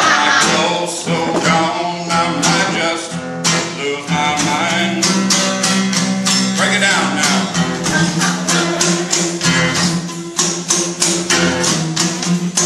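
Band music led by guitar, with a quick, even beat of percussive hits.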